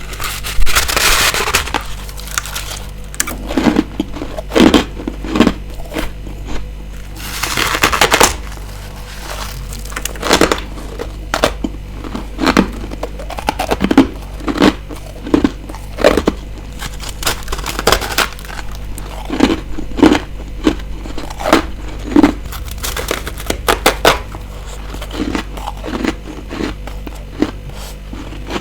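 Ice being bitten and chewed close to the microphone. There is a long crunching bite about a second in and another about eight seconds in, each followed by a run of short, sharp chewing crunches about one a second.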